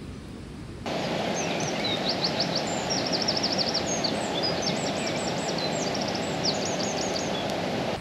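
A stream running steadily, cutting in abruptly about a second in, with a songbird singing quick repeated trills and chirps over the water.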